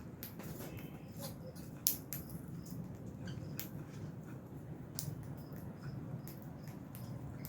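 A flock of lovebirds giving short, sharp, high-pitched chirps and squeaks at irregular intervals, one louder about two seconds in, over a steady low hum.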